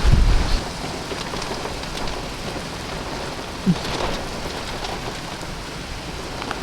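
Steady heavy rain from a severe thunderstorm, with a gust of wind buffeting the microphone that dies away about half a second in.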